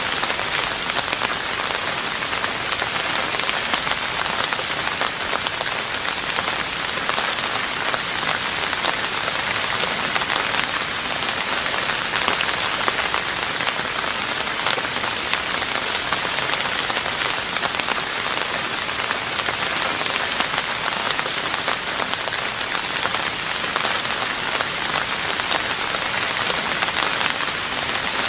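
Steady rain falling on a roof: a dense, even hiss of countless small drop hits that holds unchanged throughout.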